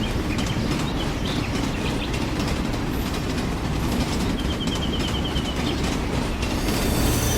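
Miniature model train running along its track: a steady rumble with faint rapid clicking.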